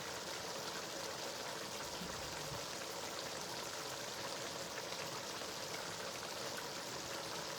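Steady sizzling hiss of the spinach stew cooking in its pot, with faint crackles.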